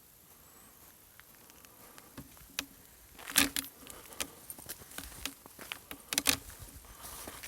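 Footsteps crunching over debris: irregular sharp crunches and clicks, loudest about three and a half and six seconds in.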